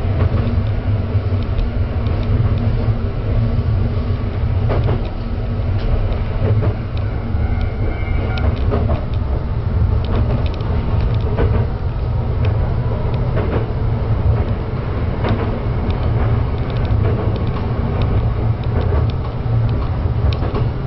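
Diesel railcar running along the line: a steady low engine-and-running rumble with scattered clicks and creaks.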